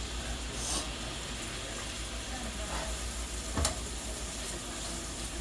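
Food sizzling steadily in a frying pan, with one sharp knock of a utensil against the pan about three and a half seconds in.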